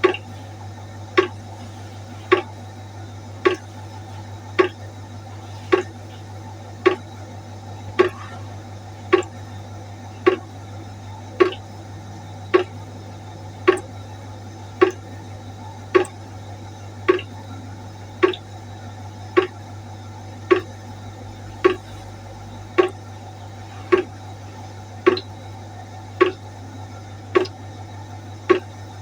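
Water drops falling one at a time into a pot, each landing as a short, sharp plink at an even pace of a little under one a second. A steady low hum runs underneath.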